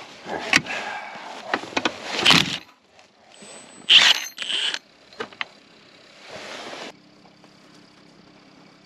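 Metal hand tools and sockets clinking, knocking and scraping on a snowmobile's clutch, with several sharp clicks and a loud metallic clatter about four seconds in. It goes quiet after about seven seconds, leaving a faint steady hum.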